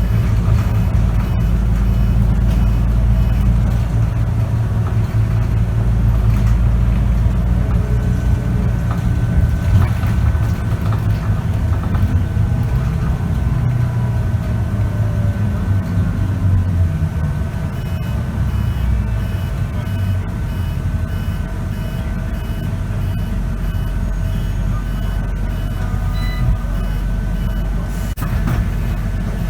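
Inside a Scania K94UB bus with a ZF automatic gearbox: the diesel engine runs with a deep drone that eases off about two-thirds of the way through. A high, evenly repeating beep sounds at the start and again in the last third.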